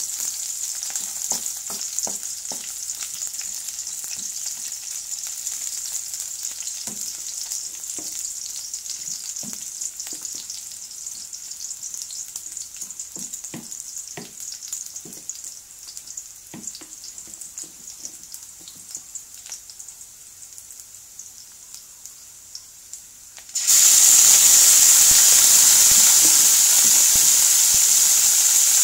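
Onion and garlic sizzling gently in oil in a wok, with a wooden spatula scraping and knocking against the pan. About three-quarters of the way through, chicken pieces hit the hot oil and a much louder sizzle starts suddenly and carries on.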